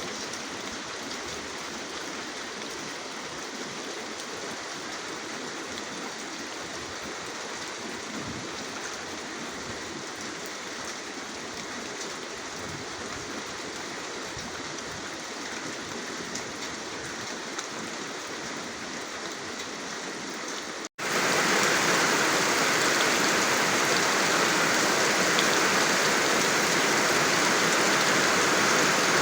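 Steady rain falling, an even hiss of drops. About 21 s in it cuts out for an instant and gives way to a louder, brighter, steady rush of water.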